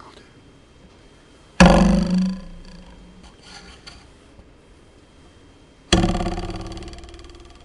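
A ruler twanged twice, about four seconds apart: each twang starts suddenly and dies away, the second ringing on longer.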